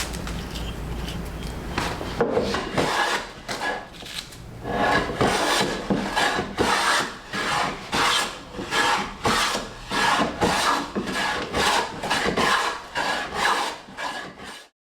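Hand-held abrasive or rasp worked back and forth on wood in steady strokes, about two a second. The sound cuts off suddenly near the end.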